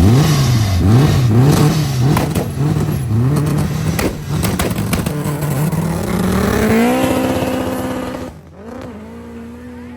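A car engine revved hard in quick repeated blips, with a few sharp cracks among them. It then climbs to a higher pitch and holds it before cutting off about eight seconds in, leaving a quieter steady engine note.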